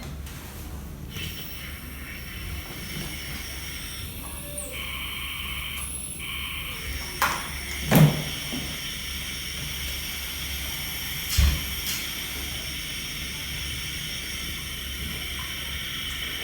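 Steady hiss and low hum, with a few knocks and clunks, the loudest about eight seconds in.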